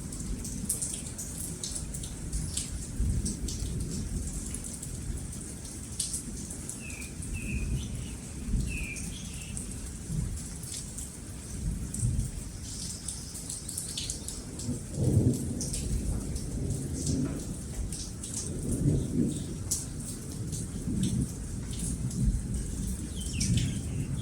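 Steady rain with scattered raindrop ticks and low rolling thunder that swells twice past the middle. A few short bird chirps come through about a third of the way in.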